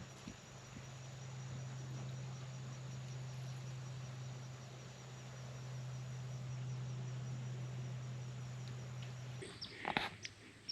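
Insect chorus, crickets chirping steadily, with a steady low hum under it that stops about nine seconds in. A few brief clicks and rustles near the end.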